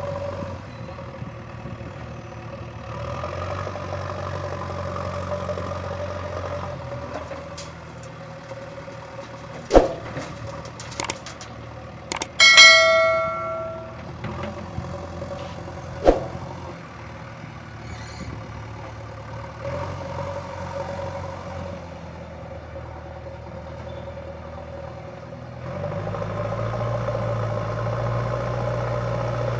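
Diesel engine of a JCB 3DX backhoe loader running steadily, its note rising and falling with the work. It is broken by several sharp metal knocks, one of which rings out for about a second as a loud metallic clang.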